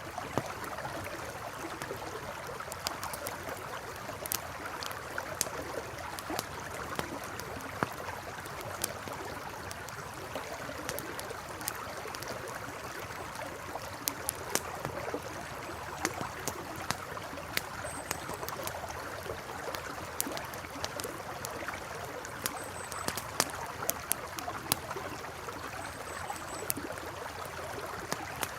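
Campfire crackling with irregular sharp pops over the steady rush of a flowing river. A few faint high chirps come in the second half.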